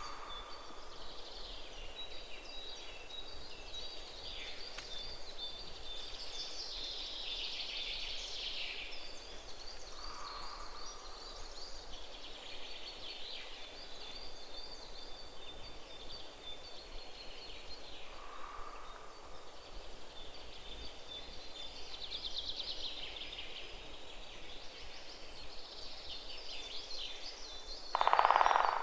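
Rural outdoor ambience of birds calling, with a steady high chirring underneath. Softer low calls come every several seconds, and one brief louder call comes near the end.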